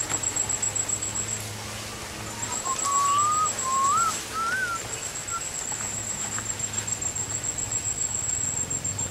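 A bird's whistled phrase of about four sliding notes, each a little higher than the last, ending on a short note. A steady high-pitched whine runs underneath.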